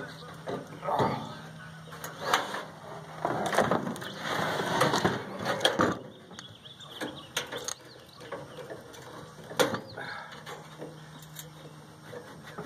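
Irregular knocks, clanks and scraping of hand tools on a microwave's sheet-metal casing while the transformer is worked loose from its bottom mounting. The noise is busiest a few seconds in, and there is one sharp strike near the end, over a faint steady hum.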